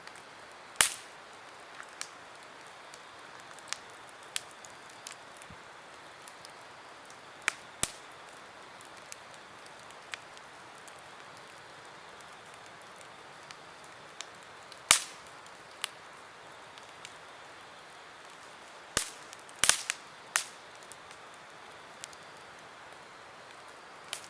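Wood campfire crackling: irregular sharp pops and snaps, a few loud ones including a quick cluster near the end, over a steady faint hiss of the burning fire.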